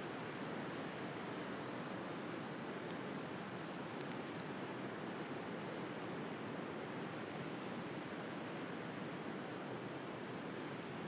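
Steady wash of sea surf with a wood bonfire crackling now and then, a few small sharp pops scattered through it.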